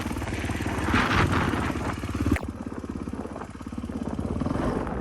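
450cc four-stroke dirt bike engine revving up and down, then a sharp click about two and a half seconds in, after which the engine runs lower and steadier.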